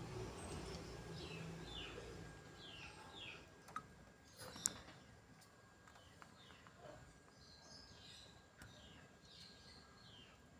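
Budgerigars chirping faintly: short falling chirps, mostly in pairs, repeating every second or so. Two sharp clicks stand out about four seconds in.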